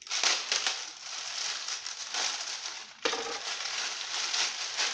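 Crinkling and crackling of an Indomie instant noodle packet being handled and pulled open, with a brief break about three seconds in.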